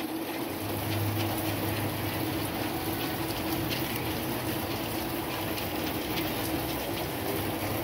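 Steady rain falling, an even hiss with faint scattered ticks, over a steady low hum.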